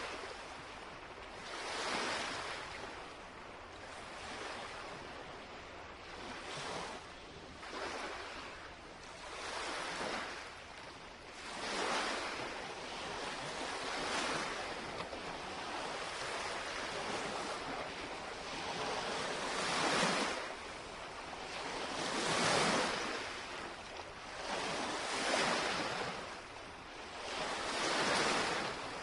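Small lake waves lapping and breaking on the shore, a soft wash of water that swells every two to three seconds and then recedes.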